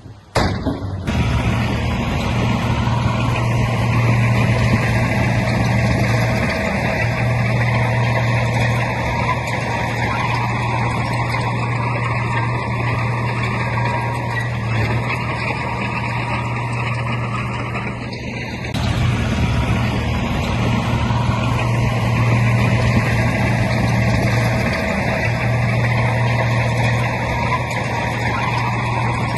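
Heavy diesel earthmoving machine engine running steadily with a deep, even hum. It cuts in suddenly right at the start and dips briefly about two-thirds of the way through.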